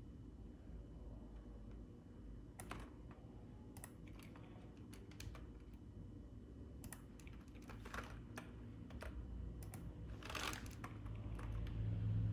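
Computer keyboard keys clicking in scattered, irregular strokes, with a denser run of clicks about ten seconds in, over a steady low hum.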